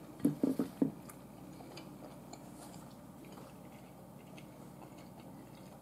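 A person chewing a mouthful of ground-beef burrito: a few short, louder mouth sounds under a second in, then quiet chewing with faint clicks.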